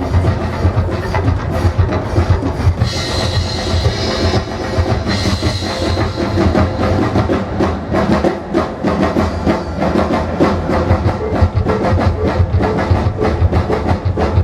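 Live percussion ensemble playing a fast, dense drum rhythm, with a high ringing shimmer over it from about three to six seconds in.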